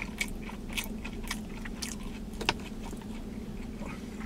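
A person chewing a mouthful of Philly cheesesteak sub with the mouth closed: soft, wet smacking clicks about twice a second, one sharper about halfway through, over a steady low hum.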